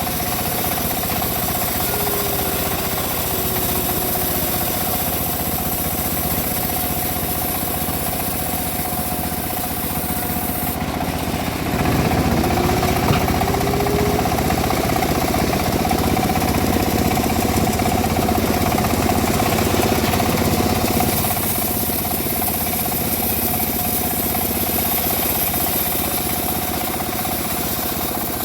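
Homemade bandsaw mill running with a steady machine drone, growing louder for about ten seconds in the middle.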